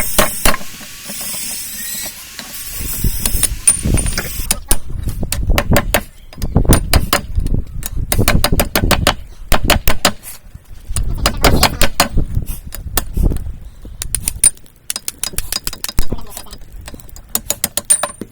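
A few seconds of steady hiss, then a long run of hammer strikes from about four seconds in, driving a steel drift through the hot eye of a railroad-spike tomahawk.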